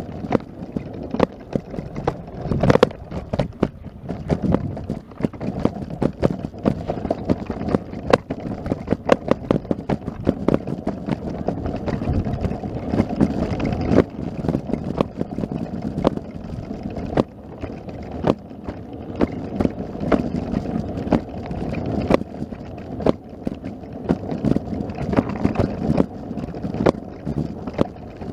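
Wind buffeting the microphone: a rumble that swells and falls, with many irregular sharp clicks and knocks through it.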